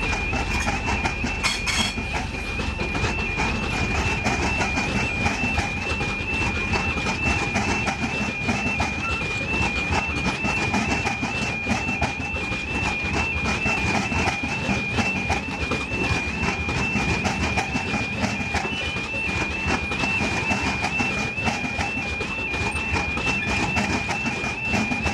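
A train running past on the rails with continuous rumble and wheel noise, while a high electronic two-tone alarm alternates about twice a second.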